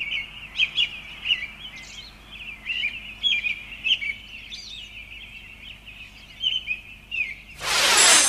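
Songbirds chirping and warbling continuously, with many short, quick calls. Near the end, a loud rushing hiss breaks in abruptly and drowns them out.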